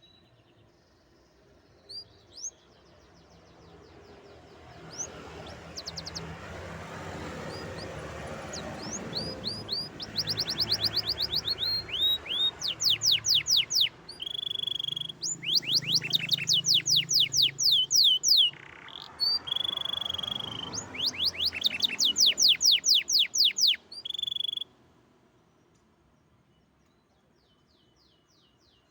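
Canary singing a long song of fast trills: rapid runs of repeated high, falling notes broken by a few held whistles. The song ends abruptly a few seconds before the close.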